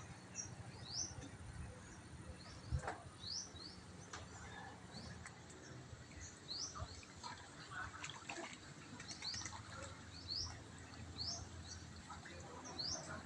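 A bird calling, a short high note that sweeps upward, repeated about once a second. There is a single sharp knock about three seconds in.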